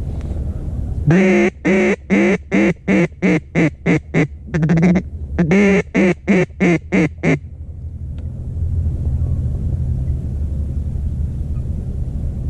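Mallard duck call blown by a hunter: a long opening quack, then a string of short quacks that come faster and faster, a quick burst of chatter in the middle, and a second quickening string of quacks. Steady low wind rumble before and after the calling.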